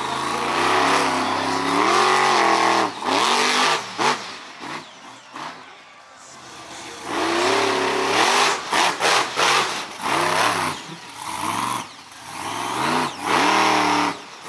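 Monster truck engine revving hard again and again, its pitch climbing and dropping with each throttle burst. There is a lull about four to six seconds in, then a run of short sharp throttle stabs.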